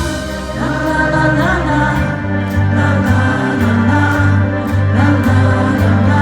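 Live band music with layered singing over a regularly pulsing bass.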